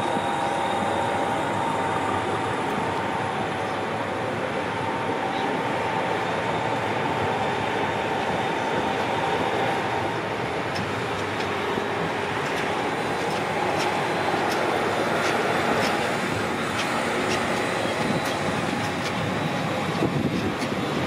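Matterhorn Gotthard Bahn passenger train under way, heard from the train itself: steady wheel-on-rail running noise with a faint steady whine. In the second half a run of sharp clicks comes from the wheels passing over rail joints and points.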